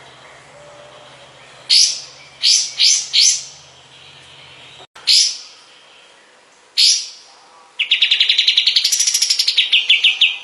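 Kapas tembak songbird calling: single sharp, high whistled notes, some in quick pairs and triples, then near the end a fast trill of about eight notes a second that rises and then falls in pitch.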